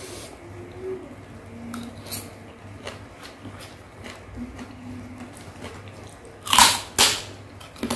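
Close-up eating sounds of a person chewing soft rice cake and rujak in thick sauce: quiet wet chewing and small mouth clicks, then two loud, sharp smacking sounds about six and a half seconds in as a piece of rice cake goes into the mouth.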